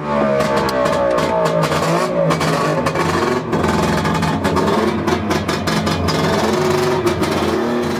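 Motorcycle engine running and being revved, its pitch falling and rising, then steadier before fading out near the end.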